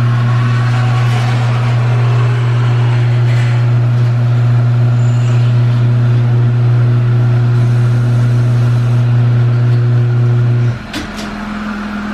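Loud, steady buzzing hum from a 2020 Jeep Wrangler, the unexplained jackhammer-like noise it makes, cutting off suddenly with a click near the end.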